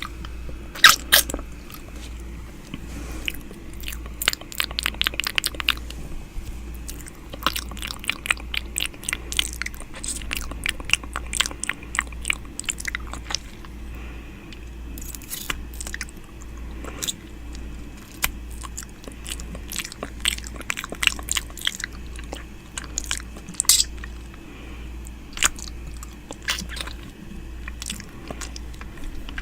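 Close-up ASMR 'ear eating' mouth sounds: irregular wet clicks and smacks from lips and tongue right at the microphone, coming in quick clusters. A faint low hum runs underneath.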